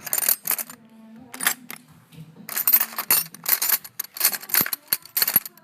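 Small wrench working a bolt in an engine bay: a run of sharp metallic clicks and clinks in irregular clusters, densest in the second half.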